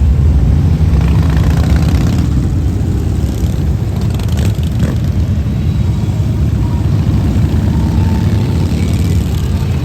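Several motorcycle engines running together in a loud, steady low rumble that eases slightly toward the end.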